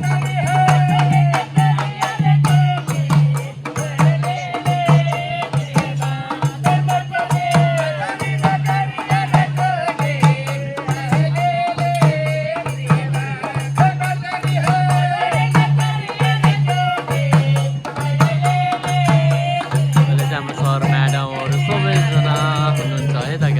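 Tharu folk dance music: a voice singing a wavering melody over fast, dense rhythmic percussion with a rattling, shaker-like sound.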